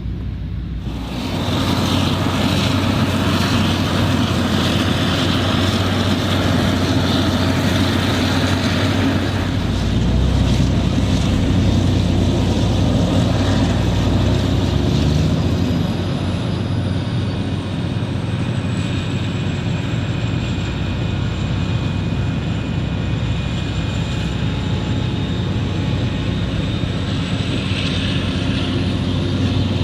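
Claas Jaguar 980 forage harvester's V12 diesel running steadily under load while chopping maize, with a wide rushing noise and a faint high whine that sinks in pitch and rises again near the end. The sound steps up in loudness about a second in.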